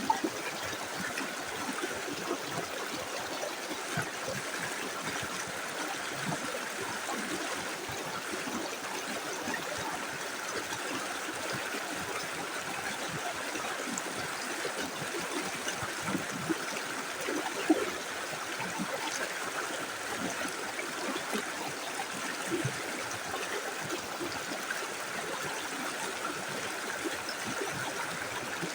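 Small river's water running in a steady, even rush.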